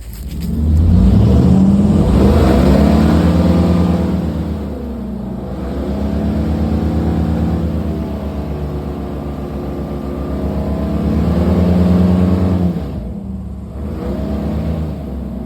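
A motor vehicle engine running loud and revving up and easing off several times, with a sharp drop in speed about thirteen seconds in before it picks up again.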